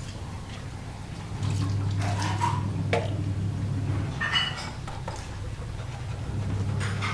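Gas stove parts being washed by hand in water: splashing and scrubbing, with several small knocks against the parts, over a steady low hum.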